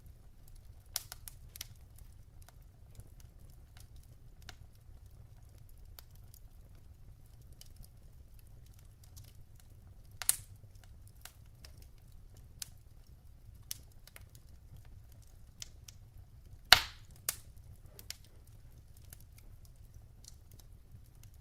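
Burning logs in a fireplace crackling: scattered small snaps and pops over a low steady rumble, with a louder pop about halfway and the sharpest pop later on.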